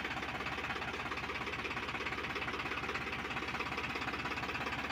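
Powertrac Euro 45 Plus tractor's diesel engine running steadily with an even, rapid pulsing beat, with no change in speed.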